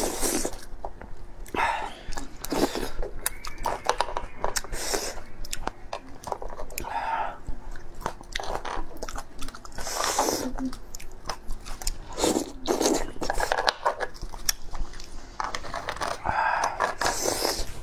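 A person eating close to the microphone: biting and chewing with crunching and many sharp clicks, in bursts every second or two.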